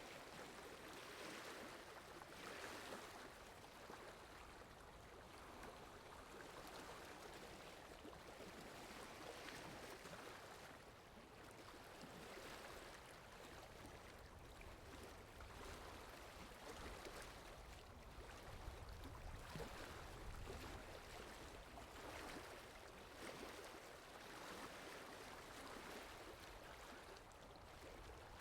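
Faint, steady rain falling in a forest: an even hiss of water that swells and eases gently.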